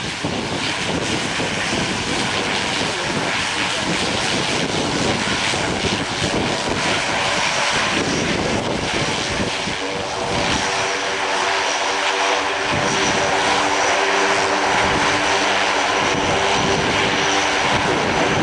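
Alenia C-27J Spartan's twin turboprop engines running at high power for takeoff: a steady rushing engine noise that slowly grows louder. About ten seconds in, a propeller drone of several steady tones joins it.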